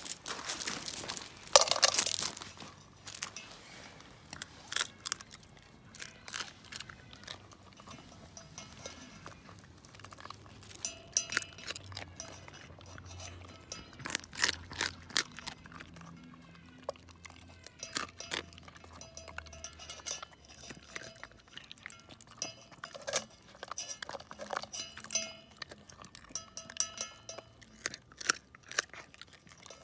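A Shiba Inu eating raw chicken wing tips and bones: irregular wet crunching and chewing clicks, with occasional clinks and short rings of a metal pot, and a louder scrabbling burst about two seconds in.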